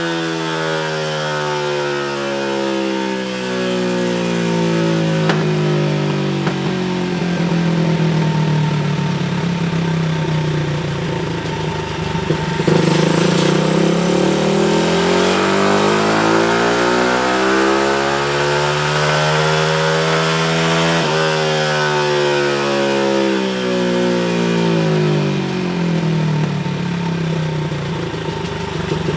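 Pit bike's 225cc single-cylinder four-stroke engine running hard on a dyno during carburettor tuning runs. Its pitch slowly falls, climbs again, and after a sharp click about two-thirds of the way through falls away once more.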